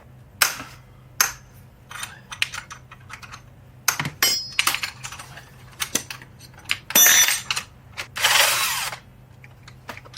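Hand tools working on motorcycle exhaust bolts: irregular metallic clicks and clinks as a wrench is fitted and turned. There is a brief ringing clatter about 7 s in and a short rasping, ratchet-like run just after it.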